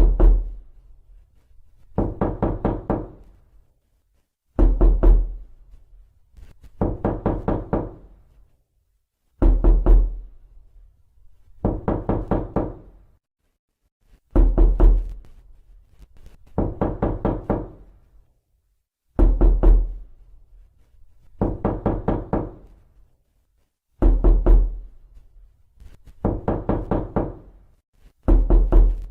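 Knocking on a door in bursts of several quick raps, a burst about every two and a half seconds. Heavier bursts with a deep thud alternate with lighter ones.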